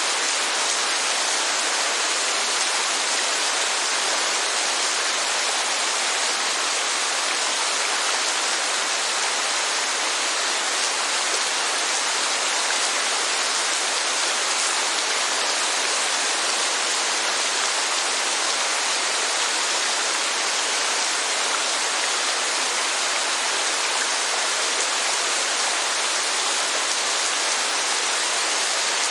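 Steady heavy rainfall, an even hiss that keeps up without lulls.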